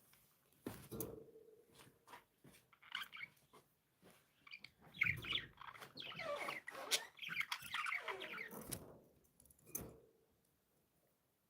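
Budgerigars chirping and chattering in short bursts with scattered sharp clicks, busiest in the middle and fading out over the last second or so.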